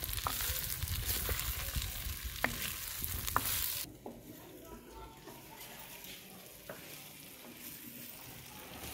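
Green beans and potato pieces frying in oil in a clay pot, stirred with a ladle: a steady sizzle with a few sharp knocks of the ladle against the pot. About four seconds in, the sound drops suddenly to a much fainter hiss.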